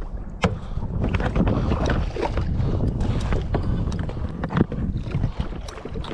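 Wind rumbling on the microphone over water sloshing and splashing around a kayak, with many scattered sharp knocks.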